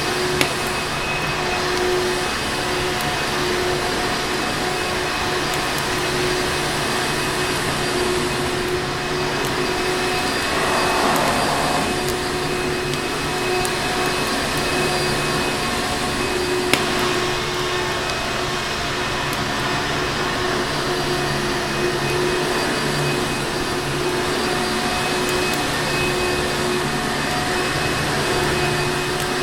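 Vacuum cleaner running steadily, a constant motor drone with a hum, with a brief swell about a third of the way in and an occasional sharp click.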